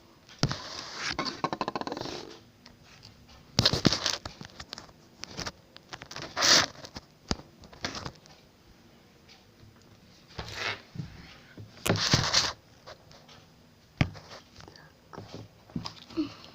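Several bursts of rustling and scraping in a small room, with a sharp click near the end.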